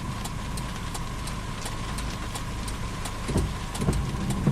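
A car engine idling, heard from inside the stopped car, with a faint even ticking over it.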